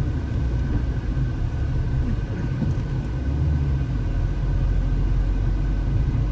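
Car engine and tyre rumble heard from inside the cabin while driving uphill on a mountain road: a steady low drone with no sudden events.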